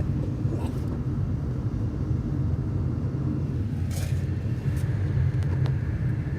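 Steady low rumble of a moving car, engine and road noise heard from inside the cabin, with a couple of faint clicks.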